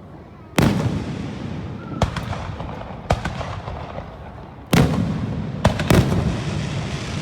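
Fireworks display: aerial shells bursting in a string of loud, sharp bangs, about six of them, each followed by a rumbling echo, the biggest about half a second in and around five seconds in.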